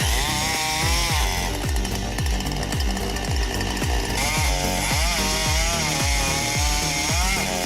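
A chainsaw running and cutting, its pitch rising and falling, mixed with background music that has a heavy bass beat about twice a second.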